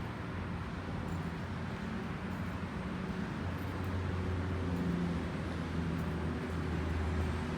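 Road traffic: a steady rushing noise with a vehicle engine's low hum that grows louder about three and a half seconds in.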